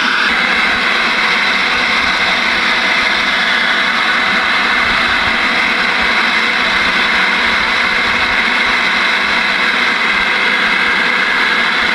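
Ranger RCI-2995DX ten-meter radio's speaker hissing with steady, loud band static while it listens on an empty channel with no station coming in.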